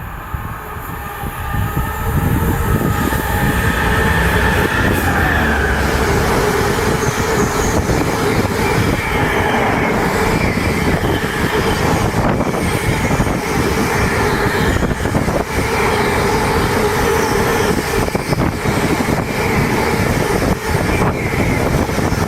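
A train running along the track: a steady, loud rush of wheels on rails, with a few steady whining tones held over it.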